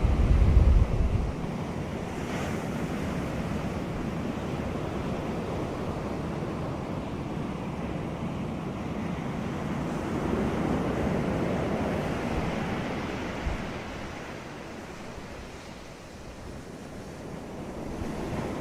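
Ocean surf on a beach, waves washing in and easing off in slow surges: louder about ten seconds in, fading near sixteen seconds, then building again. A burst of wind buffeting the microphone gives a low rumble in the first second.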